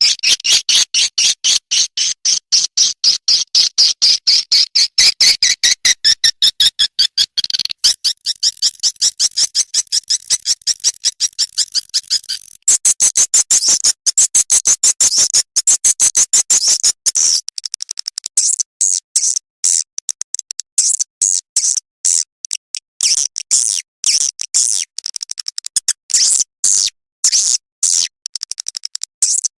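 Swiftlet calls from a swiftlet-house lure sound track: dense trains of rapid, high-pitched chirping clicks, many a second. After about halfway they thin into shorter separate bursts.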